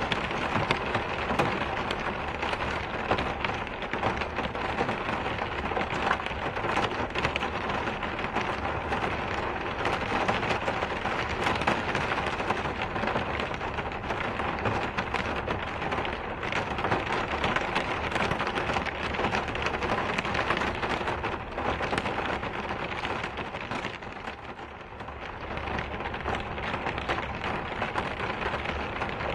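Steady rain falling, a dense even hiss flecked with many small drop ticks, dipping briefly in loudness near the end.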